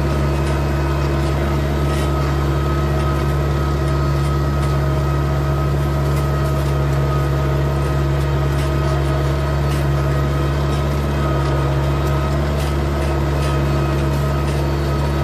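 A4800 tractor's diesel engine running steadily at a constant speed, a continuous even drone.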